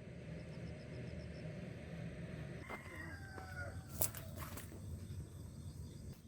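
A rooster crowing once, a call of stepped, falling pitch about three seconds in, over a steady low rumble. A sharp click, the loudest sound, comes about four seconds in, with another shortly after.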